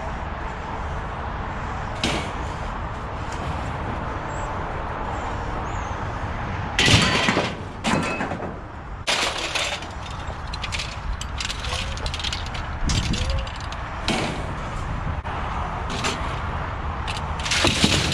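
Irregular knocks and clatter of metal over a steady rumbling background, loudest about seven seconds in and again near the end.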